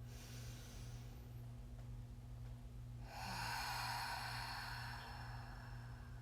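A person breathing deeply: a faint breath in through the nose, then about three seconds in a long audible sigh out that lasts a couple of seconds. It is a deep relaxation breath, inhaled through the nose and sighed away.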